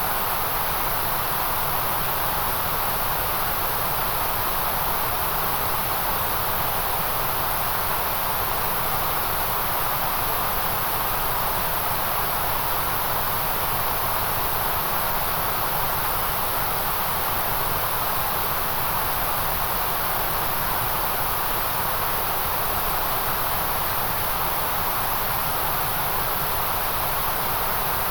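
Steady white noise: an even, unchanging hiss, strongest in the mid and very high range, with no breaks or variation.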